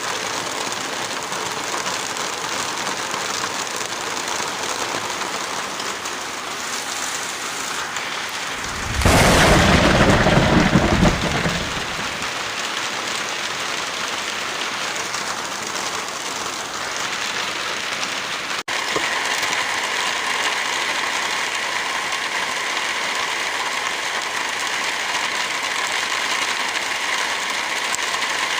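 Heavy rain falling steadily, with a loud, deep rumble lasting about three seconds roughly a third of the way in. About two-thirds of the way through the sound cuts out for an instant and the rain resumes with a changed texture and a faint steady tone underneath, as at a splice between recordings.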